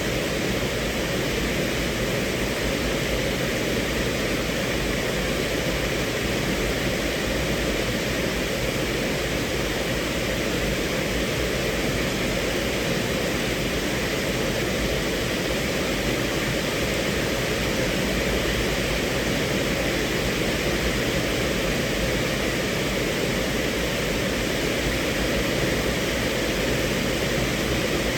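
Steady rain falling on a car, heard from inside the cabin as an even, unbroken hiss with no single drops standing out.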